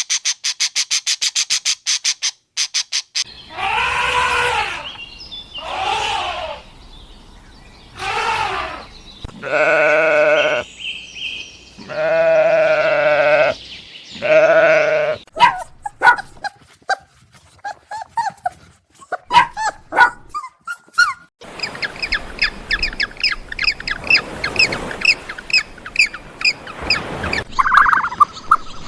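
A series of livestock bleats, several of them long and wavering in pitch, in the middle of the stretch. A rapid high trill comes before them, and quick high chirps follow them near the end.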